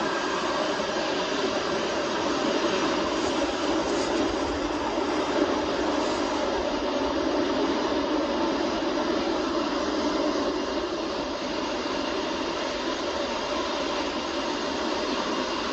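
Jet airliner engines running with a steady, even noise and a few faint steady whining tones over it.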